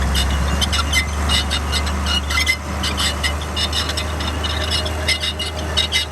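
Komatsu D41P crawler bulldozer running, its diesel engine giving a steady low drone under rapid, irregular metallic clicking and short squeaks.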